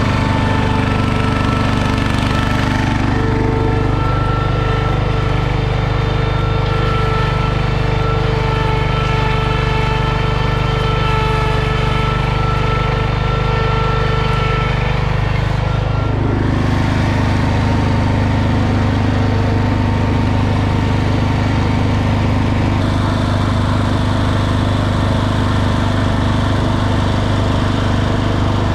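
Garden tractor engine running steadily at working speed. The engine note changes abruptly a little past halfway through.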